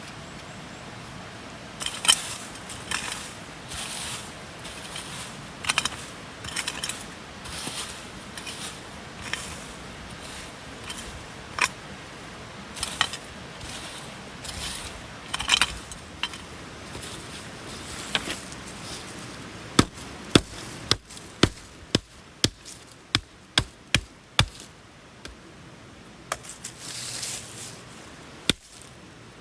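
Gear being handled with scattered scrapes and clinks, then a run of sharp strikes about two a second, like a hammer or hatchet hitting wood or metal.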